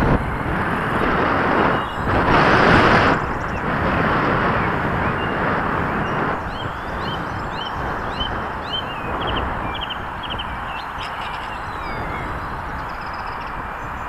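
Venom GPV-1 1/8-scale radio-controlled motorbike with a brushless electric motor running across tarmac: a steady rushing noise that swells louder about two seconds in, with a run of short high chirps in the middle.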